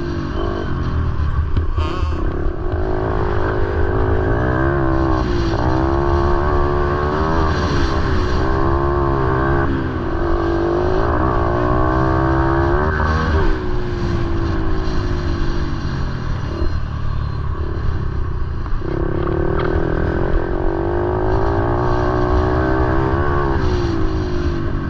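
Motorcycle engines running, their revs rising and falling every few seconds.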